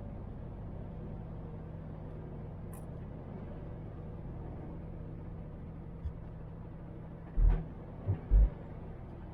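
MAN TGX truck's diesel engine running with a steady low hum while driving. About six seconds in there is one short low thump, and near the end two or three louder ones.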